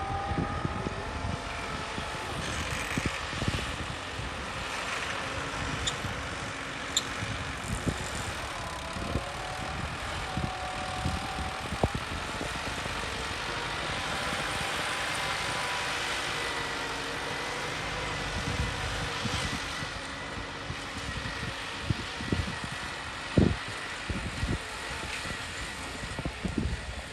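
Tractor engine running steadily, its pitch drifting slightly up and down, with scattered thumps and knocks.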